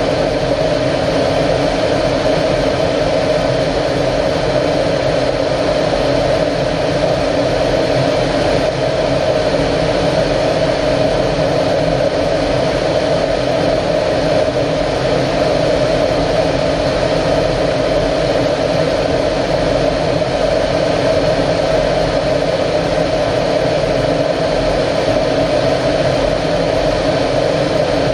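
Steady, unbroken drone of an Aero L-39 Albatros jet's AI-25TL turbofan engine, a constant noisy hum with a few steady tones that holds the same level throughout.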